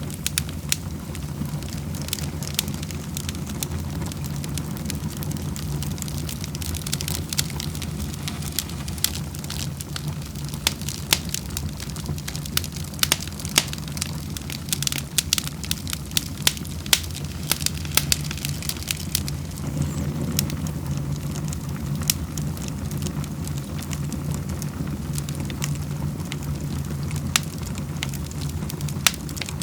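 Wood fire in a fireplace crackling, with frequent sharp pops and snaps of varying strength over a steady low rumble.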